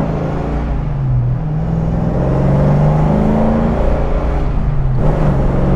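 Rebuilt LS5 454 big-block V8 of a 1972 Chevelle SS accelerating hard, heard from inside the cabin: the engine note climbs under full power, then breaks and drops about five seconds in. The rear tyres grip without spinning.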